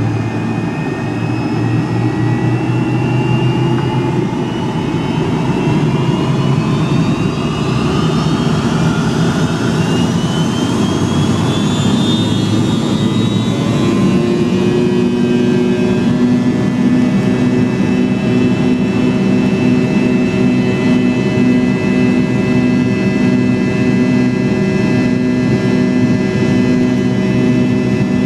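MD-83's rear-mounted Pratt & Whitney JT8D turbofan spooling up, heard inside the cabin: a whine rising steadily in pitch over a low rumble. About 14 s in it levels off into a steady hum.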